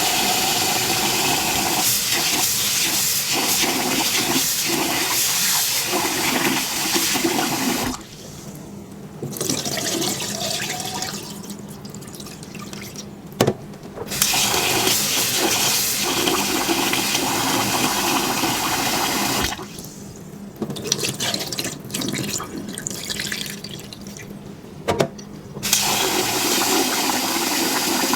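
Tap water running into a bowl in long spells of several seconds, turned off and on again several times, with quieter handling sounds and a couple of sharp knocks in the gaps.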